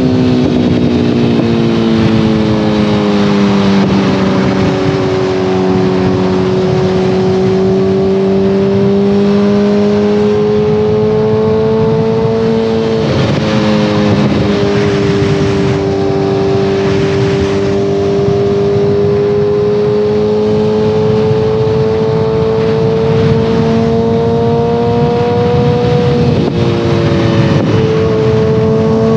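2014 Kawasaki ZX-14R's inline-four running through a full Brocks Alien Head 2 exhaust under way. Engine speed climbs slowly, and the pitch changes suddenly at gear shifts about four seconds in, about fourteen seconds in and near the end. Wind rush is heard under the engine.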